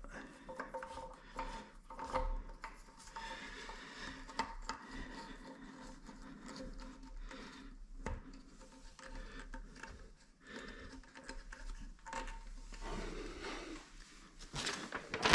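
Toilet seat hinge parts being worked into place by hand: repeated scraping, rubbing and clicking, with a sharp knock about eight seconds in and a louder clatter near the end. A faint steady hum runs underneath.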